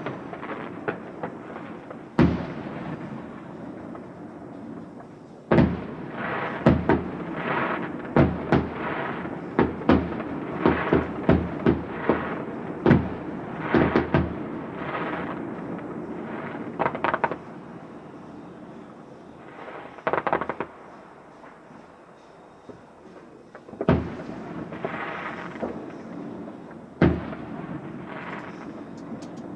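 Fireworks display: aerial shells bursting with sharp bangs, some followed by crackling, coming thick and fast in two volleys with a quieter lull between.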